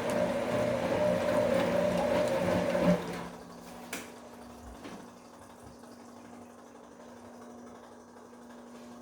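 Bosch Komfort-Klasse front-loading washing machine mid-cycle: a steady hum with rushing water stops abruptly about three seconds in. A single sharp click follows, then only a quiet, low, steady hum.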